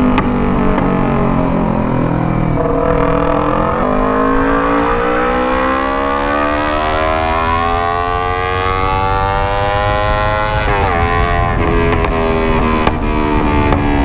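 Kawasaki Ninja 250 parallel-twin with a full-system Alpha Racefit exhaust, accelerating hard through the gears. The engine note dips about three seconds in, climbs steadily, then drops sharply near the end as it shifts up again, over a low wind rumble.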